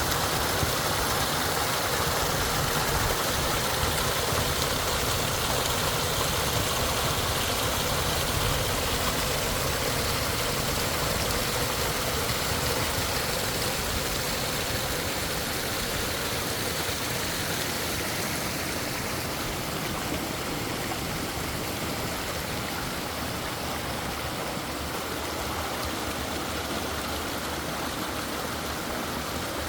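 Flowing water: a steady, even rushing of a stream, with a low rumble that fades out about halfway through.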